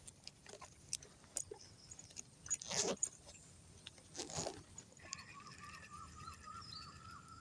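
Faint clicks and rustling from handling fishing tackle, with two soft swishing sounds about three and four seconds in. From about five seconds a bird calls over and over in short, quick, wavering notes.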